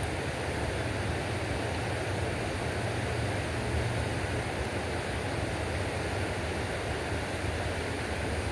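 Steady rush of river water, an even noise with a low rumble underneath.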